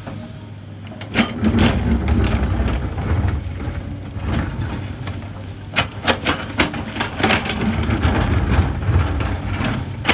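Hyundai excavator's diesel engine running at work, rising about a second in, with a series of sharp knocks and clatters that are thickest between about six and eight seconds in.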